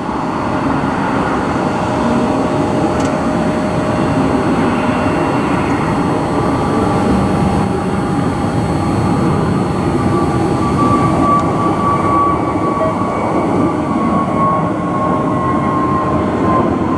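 Jet engines of a departing Airbus A320neo: a loud, steady rumble with a high whine that falls slightly in pitch toward the end.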